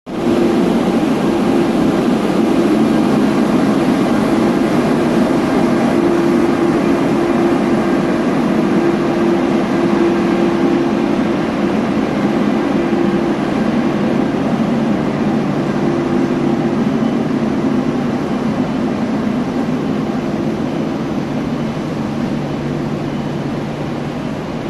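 HXD3D electric locomotive and its passenger train on the move, a steady loud running noise with a low hum, slowly fading.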